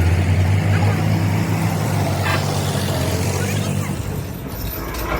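An engine or motor running steadily with a low hum and a rushing noise over it, easing off about four seconds in.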